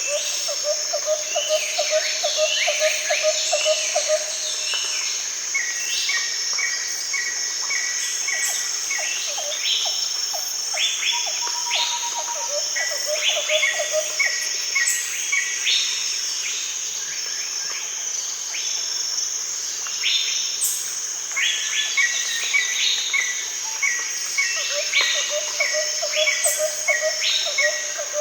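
Rainforest daytime ambience: a steady high-pitched insect drone under many birds calling, with rows of short repeated notes and quick falling calls. A low pulsing trill sounds in the first few seconds, again around the middle, and near the end.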